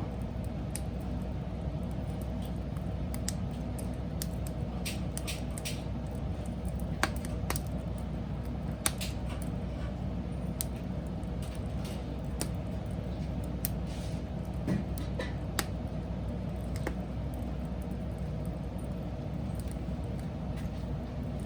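Wood fire burning: a steady low rush of flame with scattered sharp crackles and pops from the burning wood.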